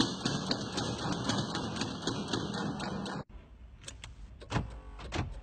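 A car engine running with fast ticking, heard at an open bonnet, cuts off abruptly about three seconds in. A run of sharp, uneven clicks follows inside a car.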